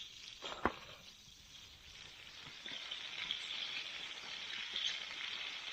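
Pork ribs and potatoes frying in a pan, sizzling steadily and growing louder after about two and a half seconds, with the burner turned up. A single sharp knock, like a utensil against the pan, comes just under a second in.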